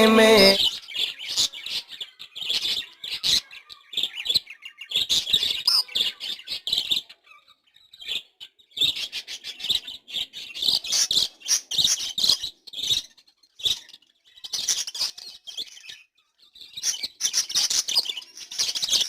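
Budgerigars chirping and chattering in quick, high, scratchy spells, broken by a few short pauses.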